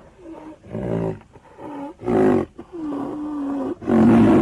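Rhinoceros calling: a series of loud, rough pitched calls about a second apart, with a longer, steady moan in between and short rising notes between the calls.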